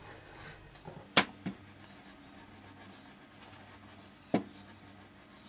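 A few sharp knocks against a quiet room: two just over a second in and one more about four seconds in, from a rolling pin and board as sakkar pare dough is rolled out flat.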